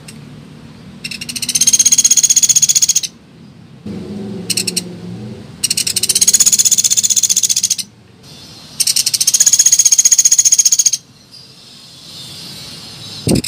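Woodpecker's rapid, high trilling call, a lure call: three long bursts of about two seconds each, with a brief burst between the first two and a fainter trill near the end.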